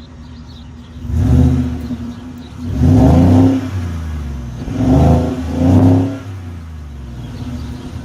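2018 Ford F-150's 5.0 Coyote V8 revved four times from idle: a short blip, a longer rev held for about a second, then two quick blips close together, dropping back to a steady idle after each. The engine is still cold from an unplugged start at −17 °C.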